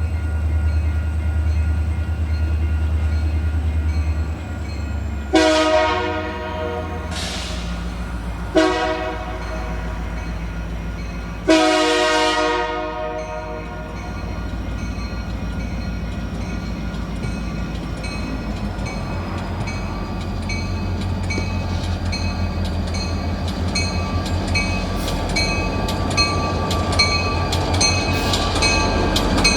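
Union Pacific diesel switcher locomotive running with a steady low rumble, sounding its air horn in three blasts, the last the longest. Later a bell starts ringing steadily, about two strokes a second.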